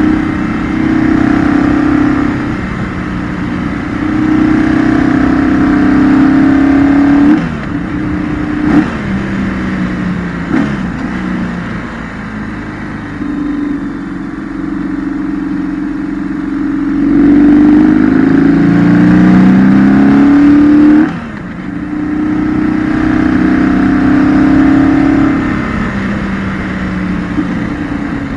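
Engine of a 2008 BMW R1200GS, an air/oil-cooled 1170 cc boxer twin, heard from on board through a series of curves. Its pitch climbs under throttle in several long pulls and drops off sharply when the throttle closes, most strongly about seven and twenty-one seconds in.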